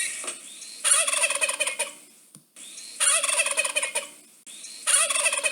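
Domestic tom turkey gobbling: three rattling gobbles about two seconds apart, each with a softer lead-in, the same call repeated.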